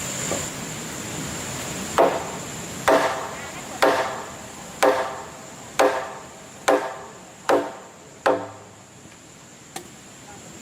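A tool striking timber in a steady rhythm: eight sharp blows, about one a second, each ringing briefly, followed by one faint tap near the end.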